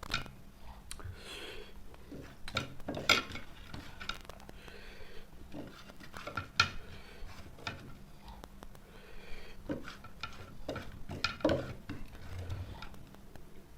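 Sharp clinks and scrapes against a plate, four louder knocks spread out, between softer eating and chewing noises.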